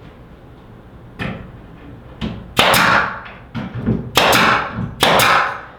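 A series of five short swishing, scraping strokes, each sharp at the start and fading over about half a second, the last three the loudest.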